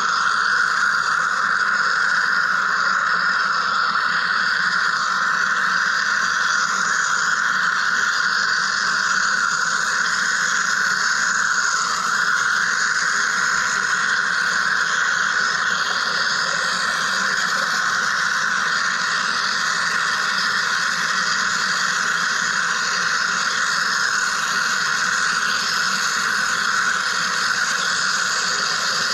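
Wire EDM machine cutting: a steady, unbroken hiss-like buzz of the spark discharge and flushing fluid.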